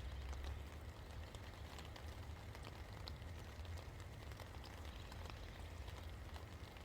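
Steady rain falling, with many small drops ticking on surfaces, over a low steady rumble.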